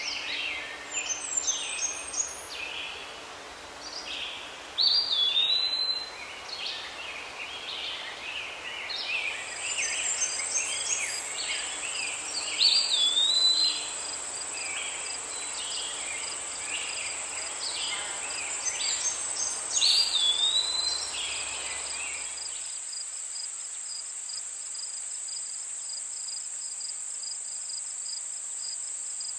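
Birds chirping and calling in quick, overlapping bursts, joined about a third of the way in by a steady high-pitched insect drone. About three-quarters through, the bird calls and the background hiss cut off suddenly, leaving only the insect drone.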